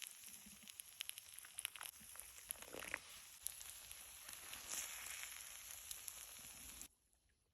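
Faint sizzling with many small crackles from an open cooking fire and a fire-heated stone, cutting off suddenly near the end.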